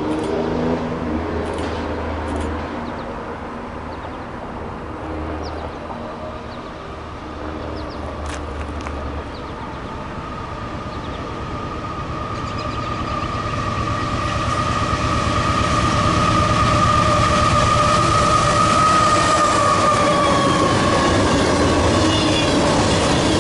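A train approaching and running past. The rumble grows louder through the first half and then holds steady, with a steady high whine over it through the middle.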